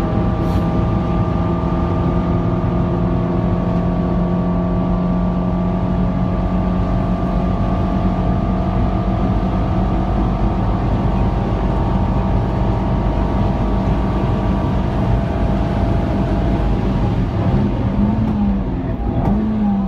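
Nissan Note NISMO S's 1.6-litre four-cylinder engine running steadily at high revs under full throttle. Near the end the note breaks up, with revs briefly rising and falling as the car brakes and shifts down for a corner.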